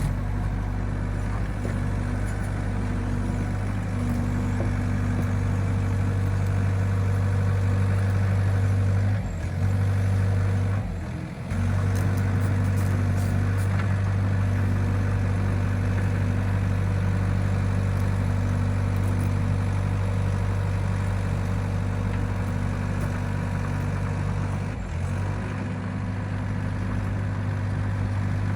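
Excavator's diesel engine running steadily, its note dropping briefly about a third of the way through and again near the end.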